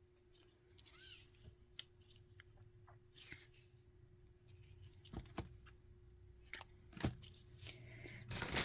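Quiet rustling and a few light knocks of craft supplies being handled as black ribbon is fetched, with sharper knocks about five, seven and eight and a half seconds in.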